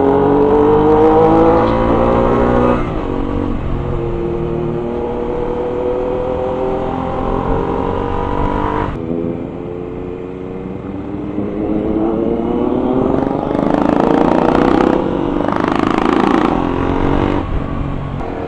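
Motorcycle engine pulling through the gears: its pitch climbs steadily, drops sharply at a shift about three seconds in and again about nine seconds in, then climbs again. A rushing noise joins it in the later seconds.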